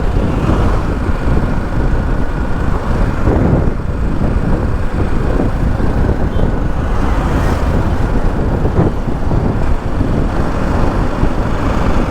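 Motorcycle ride heard from the rider's camera: steady wind rush on the microphone over the BMW G 310 GS's single-cylinder engine running at road speed.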